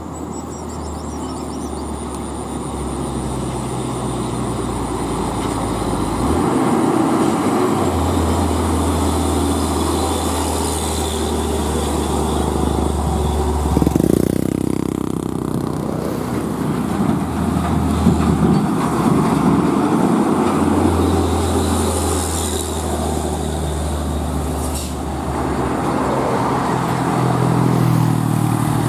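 Engine of a heavily loaded truck running hard under load on an uphill climb, a steady low drone that grows louder over the first several seconds and changes briefly about halfway through.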